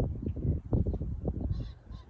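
Strong wind buffeting the microphone in uneven gusts, a low rumbling that dips briefly near the end.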